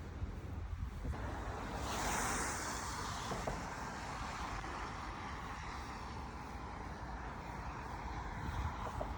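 A car passing on a wet street: a tyre hiss swells about two seconds in and fades away over a steady low rumble of city traffic.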